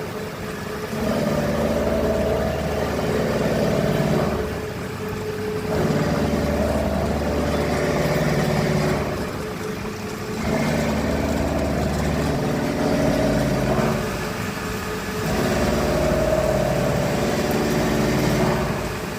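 CNC vertical machining centre running, its axis drive motors giving steady humming tones that shift in pitch from move to move. The sound drops briefly every four to five seconds between moves.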